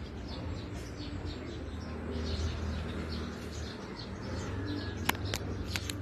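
Small birds chirping, many short, thin, high chirps in quick succession, over a steady low rumble. Three or four sharp clicks come close together about five seconds in.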